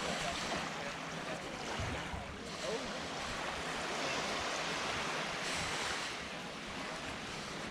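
Small waves washing onto a sandy beach: a steady surf hiss that swells twice.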